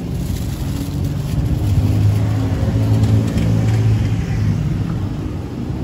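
Street traffic: a motor vehicle's engine rumbling close by, swelling to its loudest about midway and easing off toward the end.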